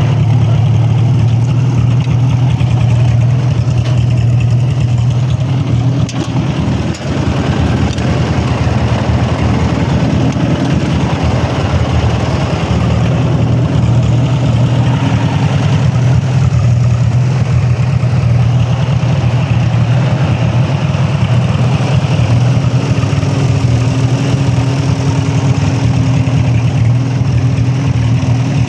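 IH Farmall H tractor's four-cylinder engine running steadily while the tractor is driven, with a brief dip in loudness about seven seconds in.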